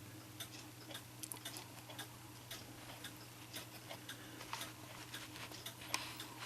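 Mechanical clock movement ticking faintly, about two ticks a second, over a low steady hum.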